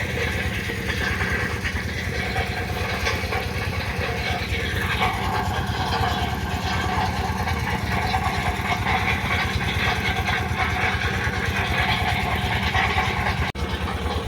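A large engine-driven processing machine running steadily, making a lot of noise: a continuous mechanical drone with a fast, even beat.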